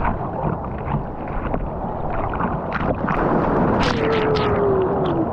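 Surf churning and splashing close to the microphone, with a run of sharp splashes past the middle. Near the end a single drawn-out tone slides slowly downward.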